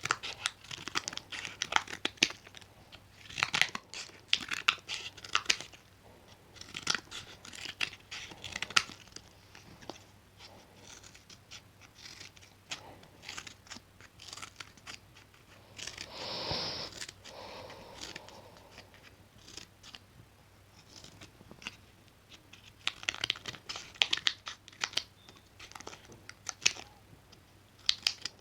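Scissors cutting close to the microphone: runs of quick, crisp snips come in bursts with short pauses between them. About halfway through, a longer rasping, tearing sound lasts for about two seconds.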